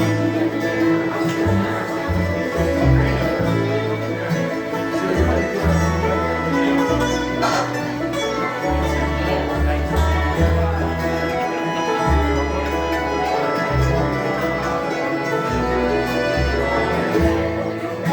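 Instrumental break in a bluegrass song, with banjo and guitar playing and no singing.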